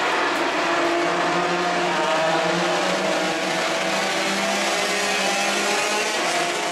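125 cc racing motorcycles running at high revs, a steady engine drone holding one pitch from about a second in until near the end.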